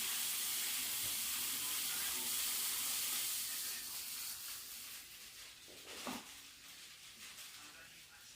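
Food sizzling in a frying pan, loud for the first few seconds and then dying down, with one short, lower sound about six seconds in.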